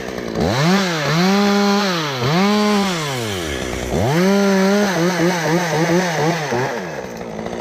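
A chainsaw's two-stroke engine revving to full throttle and dropping back three times, then revs fluttering up and down quickly before it settles lower near the end.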